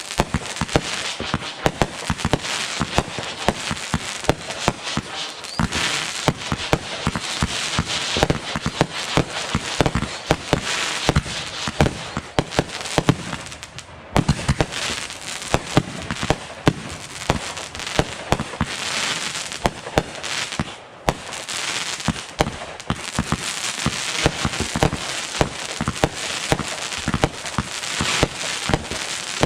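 Fireworks going off in a continuous barrage: many sharp bangs in quick succession over steady crackling, with brief lulls about halfway through and again about two-thirds of the way in.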